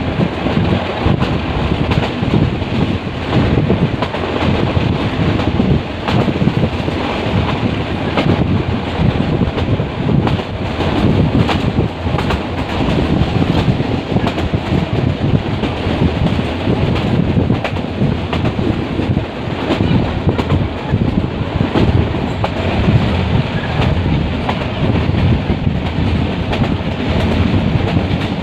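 Metre-gauge passenger train running, its wheels clattering over the rail joints with a steady rumble and a stream of clicks.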